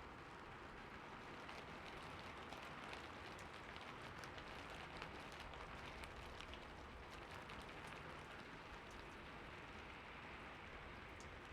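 Heavy rain falling steadily, a dense hiss with many sharp drop ticks.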